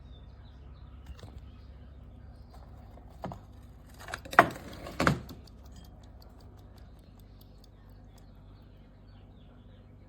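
A few sharp clicks and knocks about three to five seconds in, the loudest near the middle, over a low steady hum.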